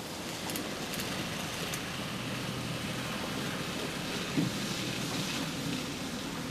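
HO scale model train running along the layout's track: a steady rolling rattle, with a few light clicks and one sharper click about four and a half seconds in.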